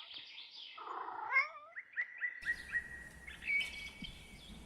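Cat meowing: several high, thin mews, one of them held for over a second.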